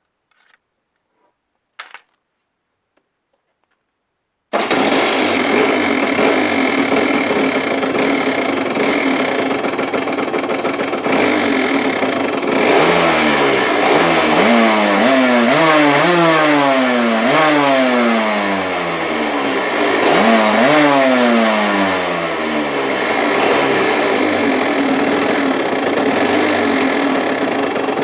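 Aprilia RS 125 two-stroke single-cylinder engine breathing through a Giannelli exhaust. It cuts in abruptly about four seconds in, after near silence and a single click, then runs loudly and is revved up and let fall again and again, with many quick throttle blips in the second half.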